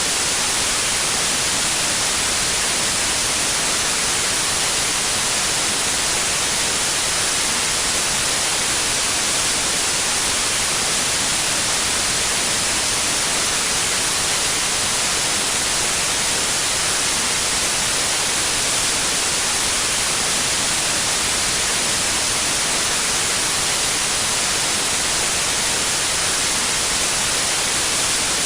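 Steady synthetic white noise: an even, unbroken hiss, brightest in the treble, that does not change.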